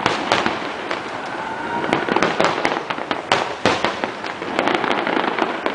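Fireworks display: a rapid, continuous run of bangs and crackling reports, many overlapping, with a faint rising whistle about two seconds in.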